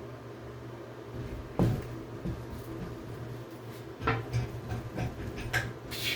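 A few sharp knocks and clunks of hard objects being handled and set down, one about a second and a half in and a busier run of them in the last two seconds, over a low steady hum.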